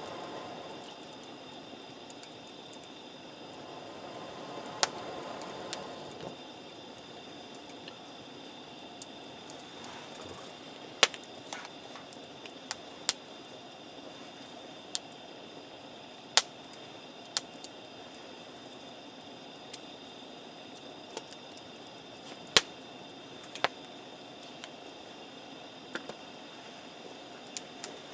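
Wood campfire crackling: irregular sharp pops and snaps over a low, steady hiss of burning, with a brief swell of louder burning noise about five seconds in.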